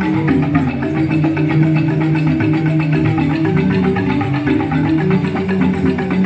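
Joged bumbung bamboo gamelan playing: bamboo xylophones (grantang) struck in a fast, dense stream of notes with interlocking melodic lines.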